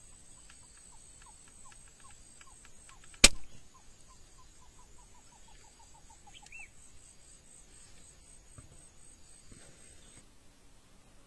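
Outdoor bird and insect sounds: an insect's steady high buzz, and a bird's repeated short down-slurred call notes that speed up over several seconds. One sharp, loud snap cuts across about three seconds in.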